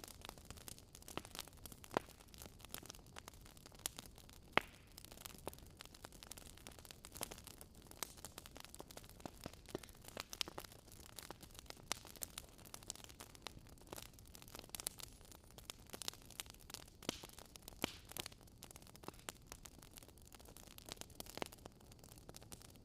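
Wood fire crackling: irregular sharp pops and snaps, a few louder ones, over a soft steady hiss.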